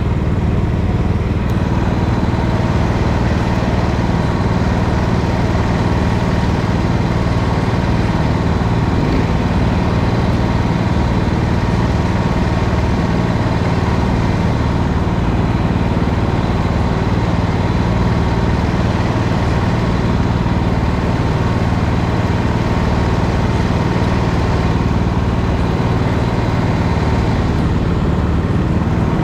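Racing kart engine running steadily, heard close up, with an even hiss over it.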